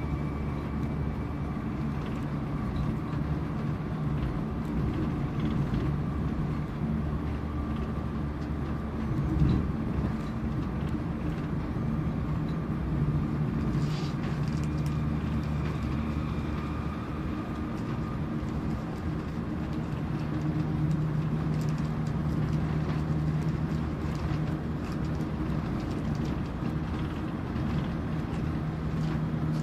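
Airport Railroad express electric train running at speed, heard from inside the passenger car: a steady low rumble of wheels on the track with a few faint steady tones over it, and a brief thump about nine seconds in.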